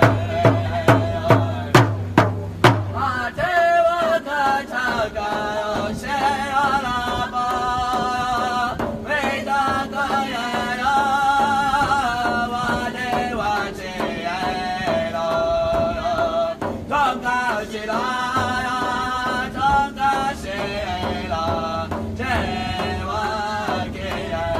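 A quick, even drumbeat for the first three seconds or so, then singing in a chant with wavering, held notes.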